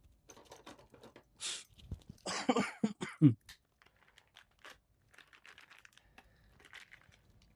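Light clicks and rustling of small plastic RC parts being handled, with a short vocal sound about two to three seconds in.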